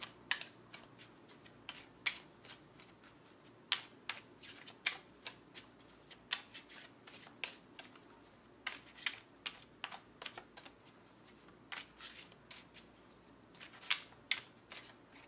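Oracle card deck being shuffled by hand: a continuous, irregular run of short, sharp card flicks and snaps.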